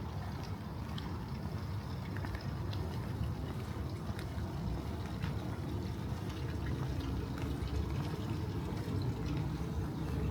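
Steady rain with water running and trickling, and scattered sharp drip taps throughout.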